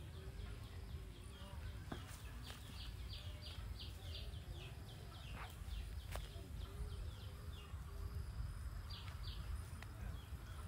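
Birds calling: a run of quick, high, downward-falling chirps, about three a second, with lower rising-and-falling calls beneath and a steady low rumble.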